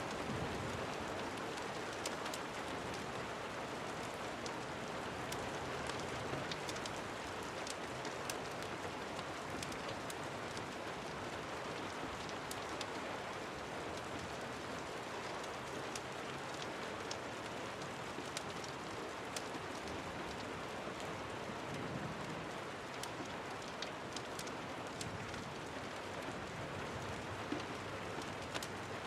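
Steady rain falling, with many sharp ticks of drops scattered throughout.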